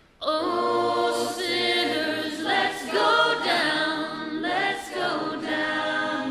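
Background music: several voices singing together in harmony, choir-style, over low sustained notes.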